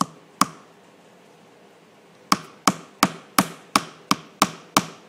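Hammer driving a nail into wood: two blows, a pause of about two seconds, then a steady run of eight blows at about three a second.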